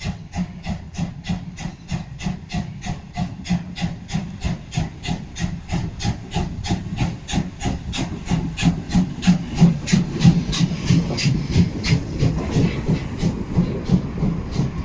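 Steam locomotive 50 3516, a two-cylinder DR class 50 2-10-0, working hard with a steady rhythm of exhaust chuffs at about four a second over a low rumble. The chuffs grow louder about two thirds of the way through.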